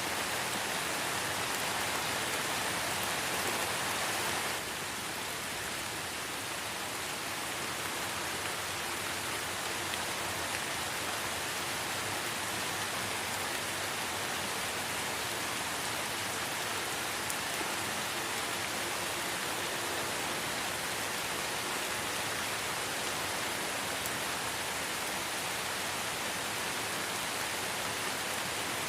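Light rain falling in a forest, a steady hiss of drops with no single strikes standing out. It eases slightly about four and a half seconds in.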